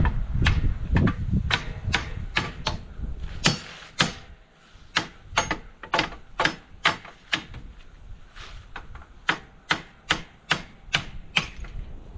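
Hammer knocking at the steel wedges that hold a tractor's cultivator to its mounting bracket, driving them out: a long run of sharp metallic strikes, about two or three a second.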